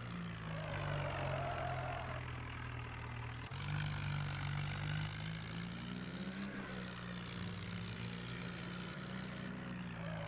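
Swaraj 744 tractor's three-cylinder diesel engine running steadily, its pitch rising and falling a little, with a sudden jump in sound about three and a half seconds in.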